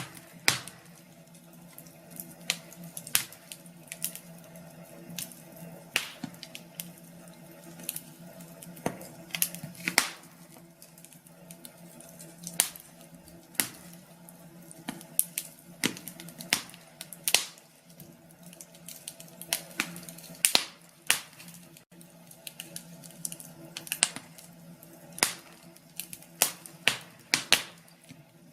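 Wood fire crackling: irregular sharp pops and snaps, several loud, over a steady low background.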